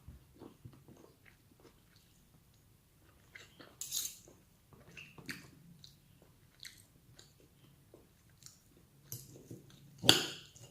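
A person chewing and biting food close to the microphone, with small wet clicks and crackles throughout. There is a louder burst about four seconds in and a sharp knock near the end.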